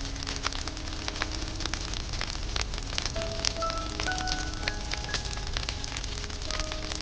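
Campfire crackling, with dense sharp pops and snaps over a steady hiss. Soft background music of slow, held notes plays underneath.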